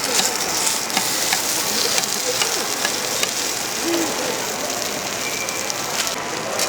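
Pancake batter frying in oil on a hot griddle: a steady sizzle with scattered small crackles. Faint voices sound behind it.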